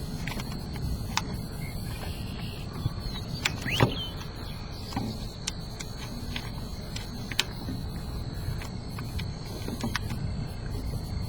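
Outdoor ambience: a low wind rumble on the microphone under a steady high insect drone, with scattered sharp clicks, the loudest about four seconds in.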